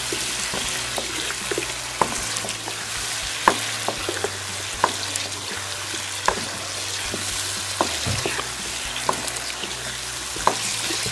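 Potato chunks frying in ghee and spiced tomato masala in a non-stick kadai, sizzling steadily while a wooden spatula stirs them, with a short knock or scrape of the spatula against the pan about every second and a half.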